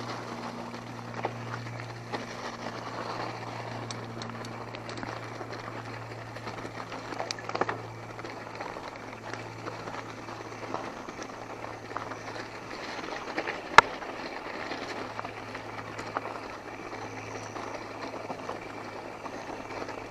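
Mountain bike rolling along a dirt trail: steady tyre and riding noise with scattered small clicks and rattles from the bike, and one sharp knock about 14 seconds in, the loudest thing heard.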